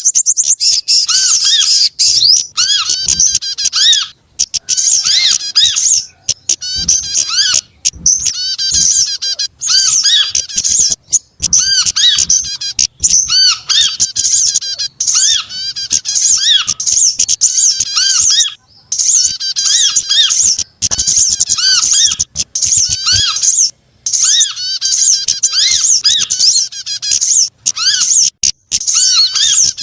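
Bird-lure recording of mixed small songbirds: dense, fast, high-pitched chattering and trilling calls with short repeated upslurred notes beneath them. It is loud and almost unbroken, with only brief gaps.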